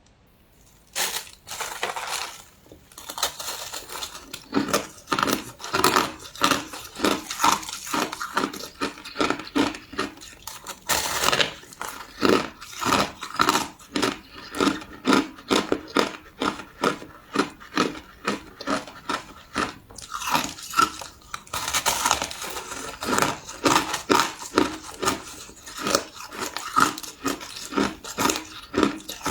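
Crushed ice being chewed close to the microphone: rapid, repeated crunching, about two to three bites a second.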